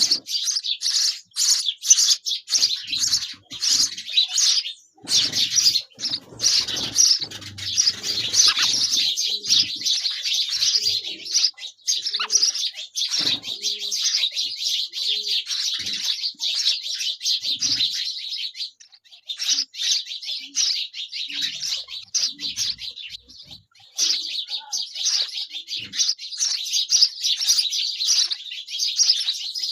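Sparrow nestlings begging at feeding time: a dense, continuous chatter of high chirps, with a few brief lulls.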